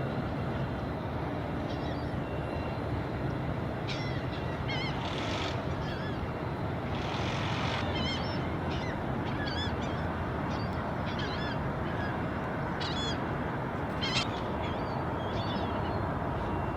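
Crows calling with short, harsh, repeated caws, many times over a steady low background rumble.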